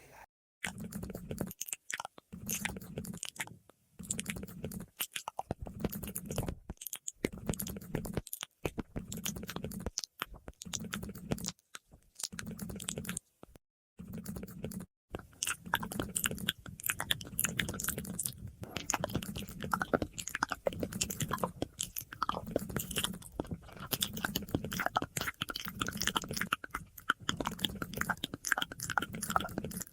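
Close-miked ASMR mouth sounds: a dense, continuous run of small wet clicks and smacks from lips and tongue, laid with an echo effect. In the first half the run is broken by several short, dead-silent gaps.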